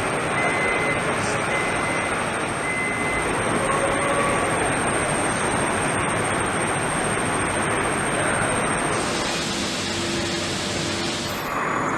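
Steady engine noise of a jet airliner, an even roar with a thin high whine above it. A faint high beep repeats in the first few seconds.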